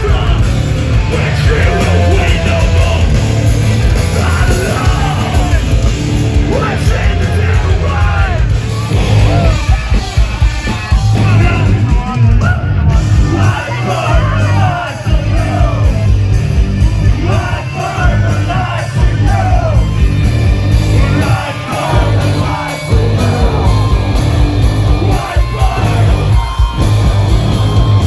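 A live heavy rock band playing loudly, with yelled vocals over the music.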